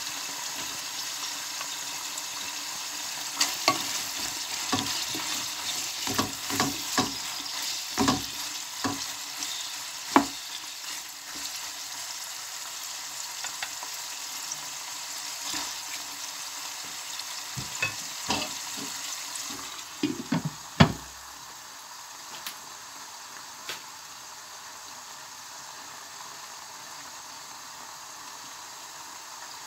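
Pork, garlic and sliced ginger sizzling in a pot, with a utensil knocking and scraping against the pot as it is stirred. The knocks stop after a last loud clatter about 21 seconds in, and the sizzle goes on more softly.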